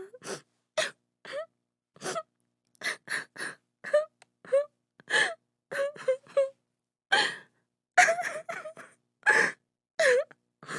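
A woman sobbing: short gasping breaths and brief wailing cries, about two a second, each cut off sharply with silence between.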